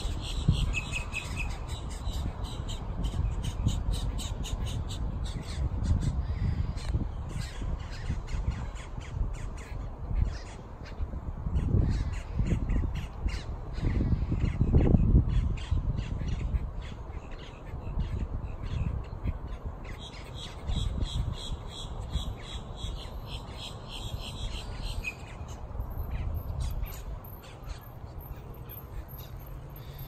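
Birds calling in quick runs of short, sharp repeated notes, loudest at the start and again about two-thirds of the way through, over a low rumble that swells around the middle.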